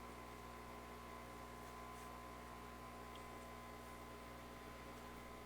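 Near silence: a faint, steady electrical hum with a thin constant whine.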